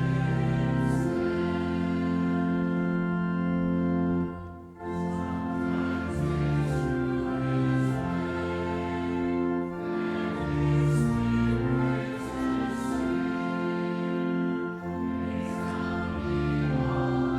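Church music: voices singing a slow hymn in sustained chords, with a brief break between phrases about four and a half seconds in.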